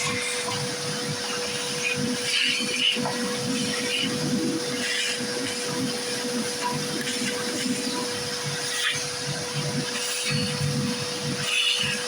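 Vacuum cleaner running steadily with a constant whine, sucking up mouse-nest debris, with short irregular rattles over it.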